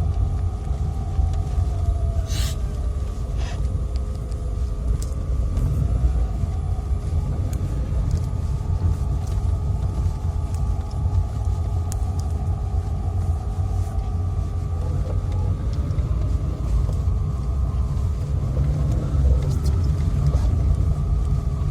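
Motor vehicle running, a steady low rumble with a constant faint hum over it and a couple of brief clicks a few seconds in.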